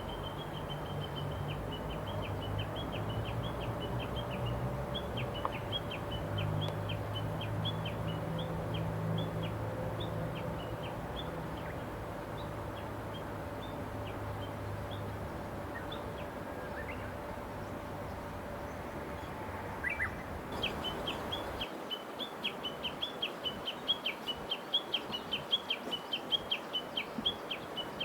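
A songbird repeating short, high chirps several times a second in a long steady series. A low rumble runs underneath until about two-thirds of the way through, then stops abruptly, leaving the chirps clearer and sharper.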